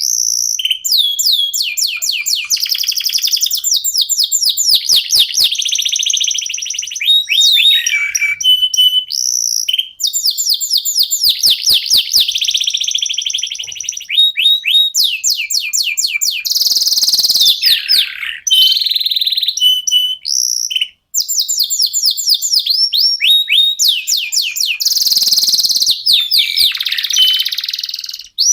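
Domestic canaries singing: a long, high-pitched song of fast trills and rapidly repeated falling whistles, with only brief breaks.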